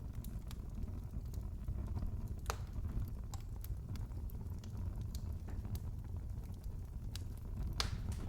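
Wood fire crackling in a fireplace: a steady low rumble of flames with scattered sharp pops and snaps, two louder pops about two and a half seconds in and near the end.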